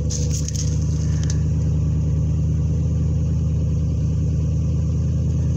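1955 Buick Special Riviera's V8 engine idling steadily, running smooth.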